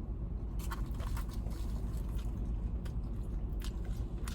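Biting and chewing into crispy fried chicken, with several short crunches of the breaded skin, over the steady low hum of the car's idling engine.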